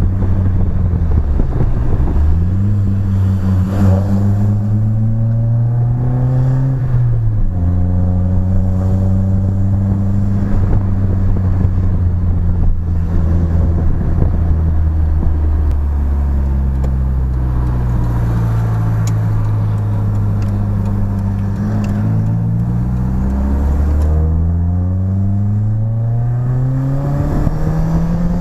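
BMW E30 engine and new exhaust running under way. The revs climb and then drop sharply at gear changes, hold fairly steady through a long middle stretch, and climb again near the end.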